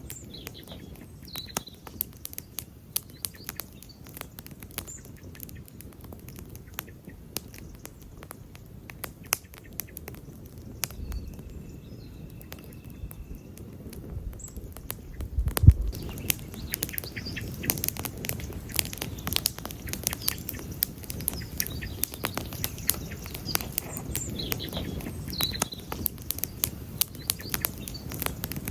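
Wood campfire crackling and popping, with sharp snaps over the low rush of the flames and a louder thump about halfway through. The crackling grows busier in the second half.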